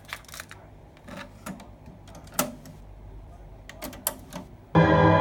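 Scattered sharp mechanical clicks and clunks of a TEAC V-3010 cassette deck's controls and tape mechanism being worked, the loudest about halfway through. Near the end, loud music starts abruptly.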